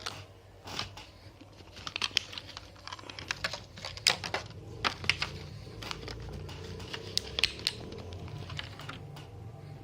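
Earphone packaging and earphones being handled: crinkling and rustling with many sharp clicks.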